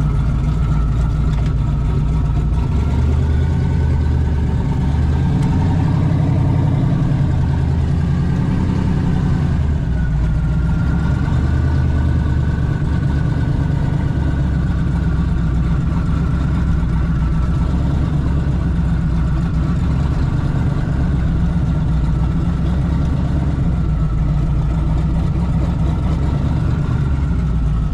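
Car engine running steadily at low speed: a deep, even rumble with a faint wavering whine above it.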